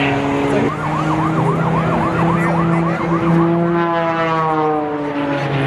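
Siren yelping in fast rising-and-falling sweeps, about three a second, then gliding down in a long falling tone near the end, over a steady low hum.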